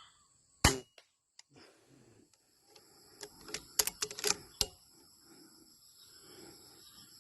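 A single sharp air-rifle shot about half a second in, then a quick run of sharp clicks a few seconds later. Insects buzz steadily at a high pitch underneath.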